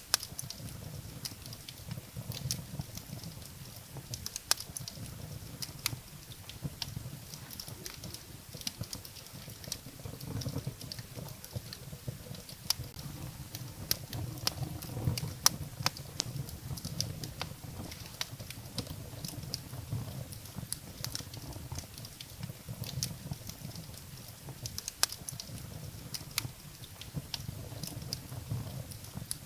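Firewood burning in a fireplace: steady, dense crackling over a low rumble, with a few sharper, louder pops, the loudest about halfway through.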